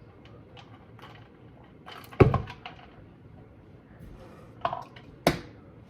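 A few separate handling knocks and clicks against a quiet room: a solid knock about two seconds in, a softer one later, and a sharp click a little after five seconds.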